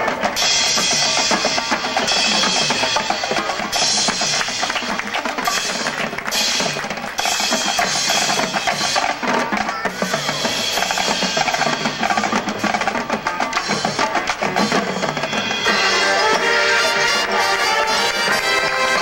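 Marching band playing a percussion-driven passage: the drum line's snares, bass drums and rolls with mallet percussion, and the wind section comes back in with held chords near the end.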